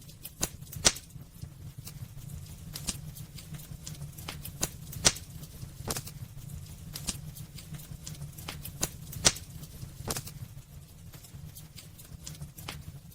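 Wood fire burning in a fireplace: irregular crackles and sharp pops over a steady low rumble, with the loudest pops about a second in, about five seconds in and about nine seconds in.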